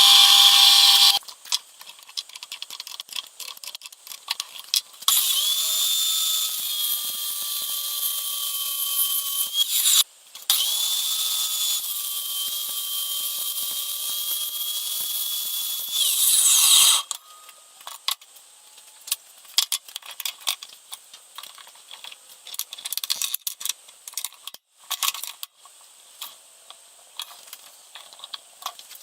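Motor of a home-built CNC machine whining at a steady high pitch in two runs of about five seconds each, the pitch rising as each run starts. Scattered clicks and rattles come before and after.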